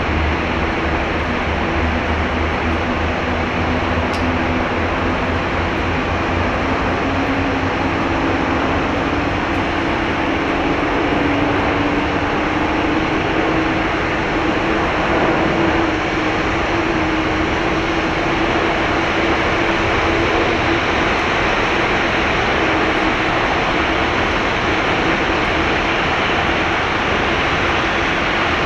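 Airbus A330-300 airliner's General Electric CF6-80E1 jet engines running: a steady loud rush with a tone that climbs slowly in pitch over the first half, then holds.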